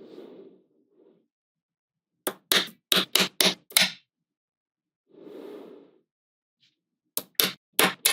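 Small magnetic balls snapping together with sharp clicks, a quick run of about six a couple of seconds in and about four more near the end, with short soft rustles of the balls being handled in between.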